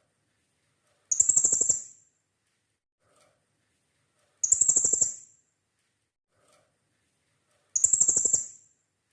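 Blue-crowned hanging parrot (serindit) calling: three short, shrill, rapidly pulsed bursts, evenly spaced about three and a half seconds apart.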